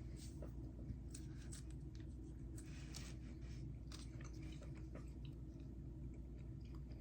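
A person chewing a soft, chewy candy, with scattered small wet mouth clicks, faint over a steady low hum.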